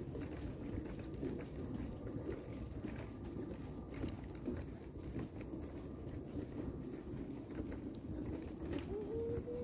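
Footsteps along a forest path, with a dove cooing near the end.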